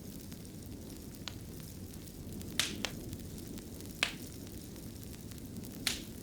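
Fireplace fire crackling: a steady low rumble of flames with a handful of sharp pops, two close together about two and a half seconds in and the loudest about four seconds in.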